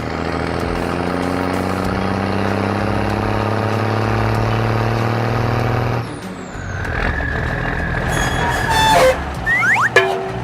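Truck engine sound effect running steadily, then cutting off abruptly about six seconds in. It is followed by a held high tone, a few clicks and some quick sliding squeaks near the end.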